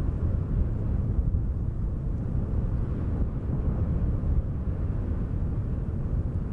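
Wind noise: a steady, low rumbling rush of wind, with no distinct events.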